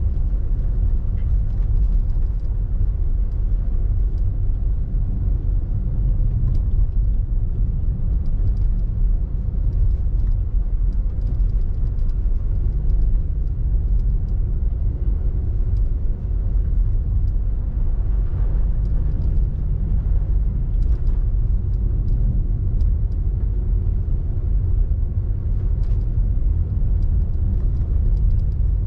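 Car driving on snowy roads: a steady low rumble of engine and tyres.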